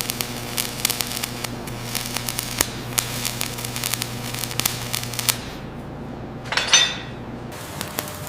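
Dense crackling over a steady electrical hum, with a brief louder hiss about six and a half seconds in.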